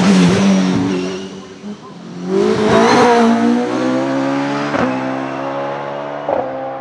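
Single-seater hillclimb race car engine revving hard under full acceleration, loudest as it goes by and rising in pitch, with quick upshifts about five and six seconds in as it pulls away and fades.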